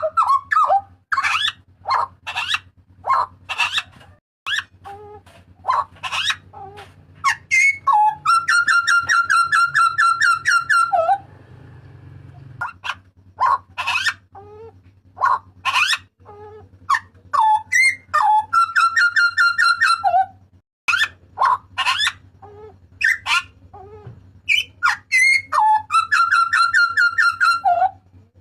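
Papuan butcherbird calling loudly: a string of sharp, whistled notes and shrieks, broken three times by a fast rattling run of repeated notes lasting two to three seconds each.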